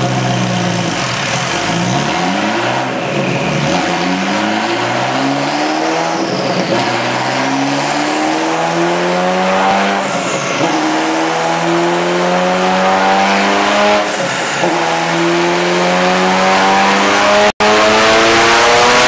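Ferrari F40's twin-turbo V8 pulling hard on a dynamometer, its pitch climbing steadily through each gear and dropping back at the upshifts, about four shifts, with the revs rising again to the end. The sound cuts out for a split second near the end.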